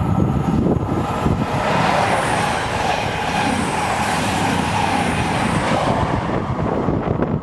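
Class 220/221 Voyager diesel multiple unit passing through at speed: a loud rush of wheel, rail and engine noise that builds about a second and a half in and falls away near the end.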